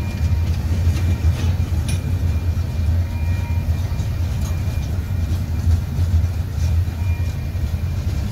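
Freight train of tank cars and covered hoppers rolling past, a steady low rumble with a few sharp wheel clicks and a faint thin high whine.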